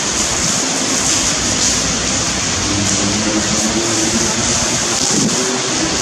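Torrential rain pouring down in a heavy thunderstorm, a loud, steady hiss. From about halfway through, a faint low engine hum runs underneath.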